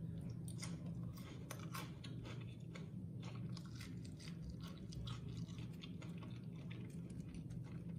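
Crispy deep-fried chicken pakoda being crunched and chewed: irregular crisp crunches, several a second, over a steady low hum.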